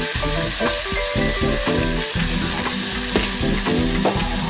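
Halved Brussels sprouts frying in butter in a nonstick pan, a steady sizzle, with a slotted spatula stirring them near the end.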